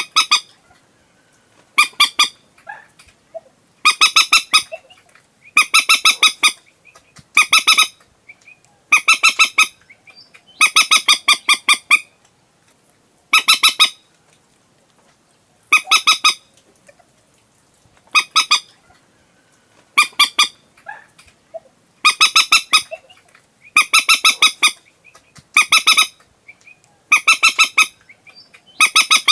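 Common moorhen calling: loud bursts of rapid, clucking notes, each burst under a second long, repeated about every two seconds.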